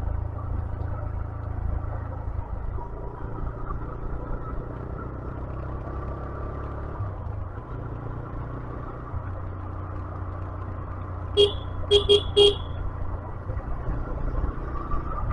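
Steady low rumble of a motorcycle ride on a hill road, with four short horn beeps, one then a quick three, about eleven seconds in.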